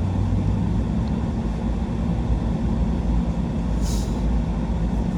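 A truck driving: steady low engine and road rumble.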